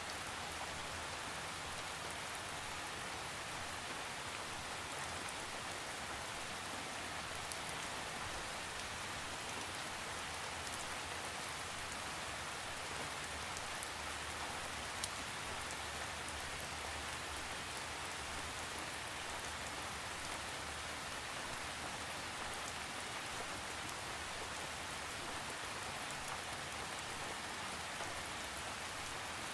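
Steady, even rain falling on surfaces, with scattered drop ticks and no thunder.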